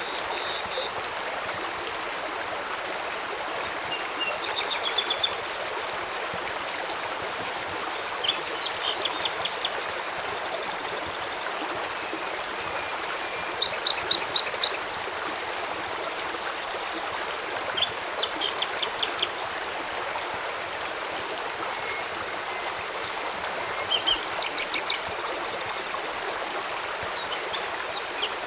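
Steady rush of a flowing stream, with a bird calling in short runs of quick high notes every few seconds; the loudest run, about halfway through, is four evenly spaced notes.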